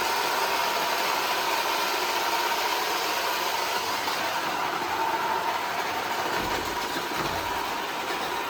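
iRobot Roomba 440 robot vacuum running, its motors and brushes making a steady whirring noise with a thin, steady whine.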